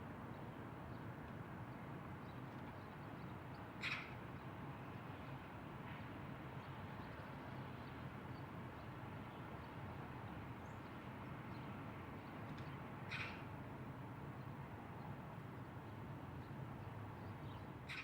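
Steady outdoor background noise with a bird giving a short call three times: about four seconds in, about thirteen seconds in, and right at the end.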